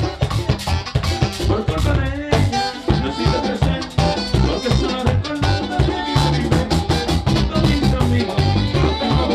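Live bachata band playing, with a steady percussive beat under pitched melody lines.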